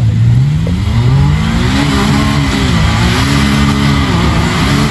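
An off-road vehicle's engine revving, its pitch rising and falling several times as the throttle is worked.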